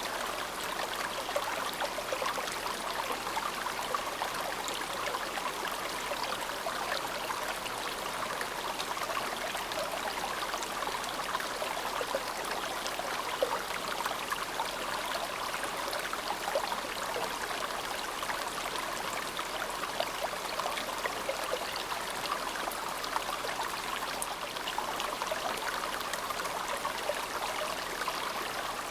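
Shallow, clear mountain river of snowmelt water babbling and trickling over stones, a steady splashing rush with fine crackling detail.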